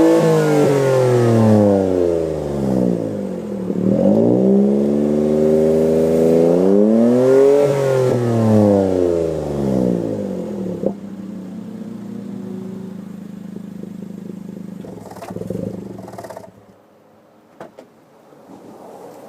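Daihatsu Mira Gino L700S three-cylinder 660 cc engine through an aftermarket exhaust (Bosco front pipe, Auto Ace centre muffler), revved twice in long stationary free revs that rise and fall. It then settles to a steady idle and the sound stops about 16 seconds in.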